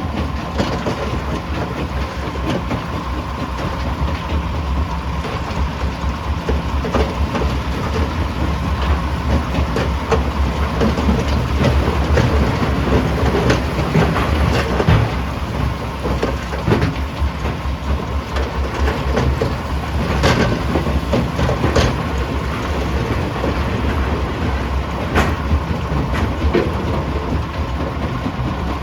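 Primary jaw crusher running under load: a steady heavy rumble with irregular sharp cracks and knocks of rock being crushed.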